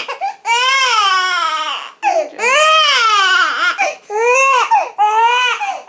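Newborn baby crying hard: about four loud wails in a row, each rising and then falling in pitch, with short catches of breath between them.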